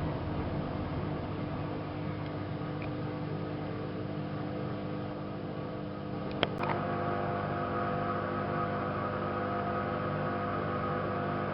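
AEG Lavamat 5210 washing machine running with a steady motor hum. A sharp click comes about six seconds in, and after it the hum changes to a new, slightly louder set of steady tones.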